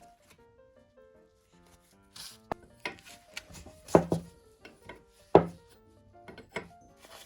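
A few sharp knocks and scrapes from hand tool work, starting about two seconds in, the two loudest strikes about a second and a half apart, over soft background music.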